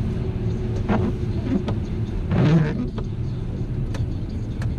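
Steady low rumble of a road vehicle running, with scattered light clicks and a brief louder rustle about two and a half seconds in.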